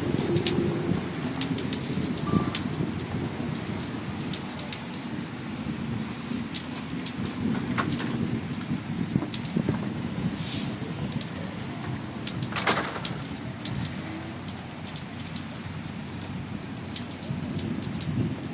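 Steady rain falling in a thunderstorm, a continuous rushing noise heaviest in the low range, with scattered sharp ticks of drops striking close by; one louder tick about two-thirds of the way through.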